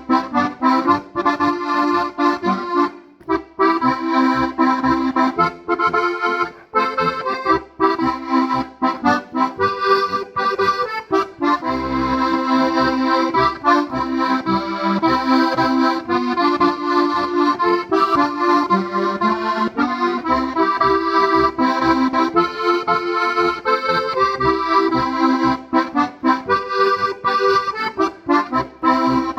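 Steirische Harmonika, a Strasser button accordion in G-C-F-B, playing a folk melody with chords and an offbeat bass, in short rhythmic phrases.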